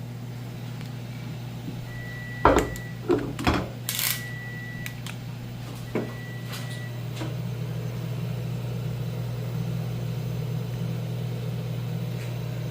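Refrigerator running with a steady low hum. A handful of sharp knocks comes a few seconds in, with three short high beeps among them.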